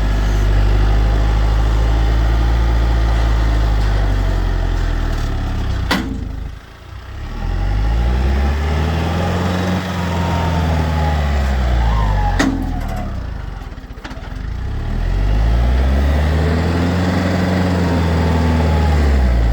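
A large engine runs and twice swings up and back down in speed, dipping low in between. Two sharp knocks come about six and twelve and a half seconds in.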